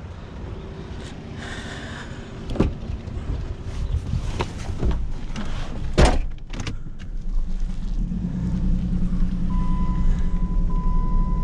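A few knocks and bangs, the loudest about six seconds in, then a vehicle engine running steadily from about eight seconds on. A steady high tone sounds over the engine near the end.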